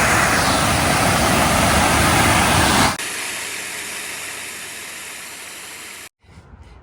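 Waterfall rushing in a dense, even roar; about three seconds in it cuts to a quieter rush of falling water that fades away.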